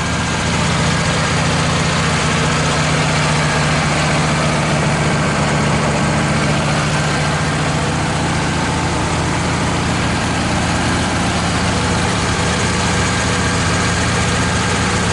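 Wood-Mizer LT15 portable sawmill's engine running steadily, an even, unbroken drone.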